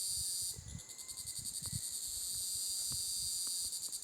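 Insect chorus: a high, steady buzzing trill with a fast pulsing, dipping briefly about half a second in before carrying on.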